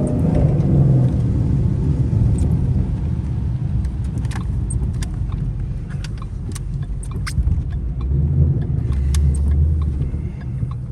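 2012 Mustang GT's 5.0 V8 running with a steady low rumble while the car is driven slowly, with scattered light clicks and ticks over it.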